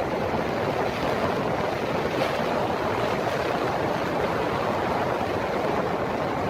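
Strong tornado winds rushing past the microphone as a steady, dense noise with no distinct knocks or crashes.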